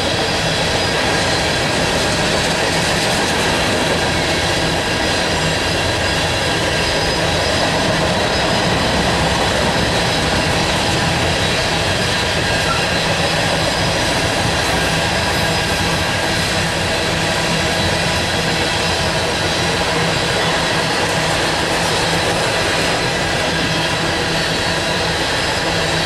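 Loaded coal hopper cars of a long freight train rolling past, a steady noise of steel wheels running on the rails.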